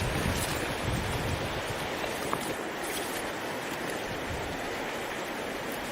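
Steady rushing noise of water and wind, with low wind buffeting on the microphone during the first half.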